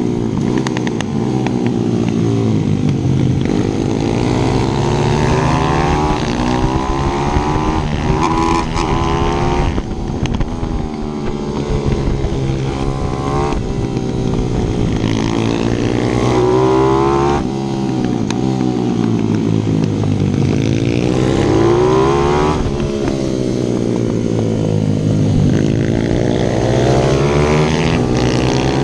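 155 cc single-cylinder pit bike engine under hard riding. It revs up and drops back every few seconds as the rider accelerates out of corners and shuts off for the next.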